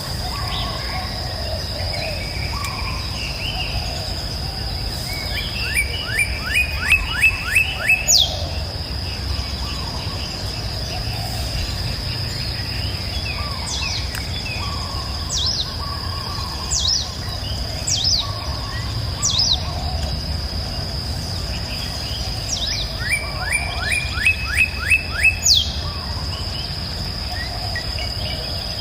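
Several songbirds singing over a steady high-pitched drone and a low, even rush. One bird gives a quick run of rising notes ending in a sharp downward whistle twice, about 6 and 23 seconds in, with single downward whistles scattered between, while softer low warbling calls go on throughout.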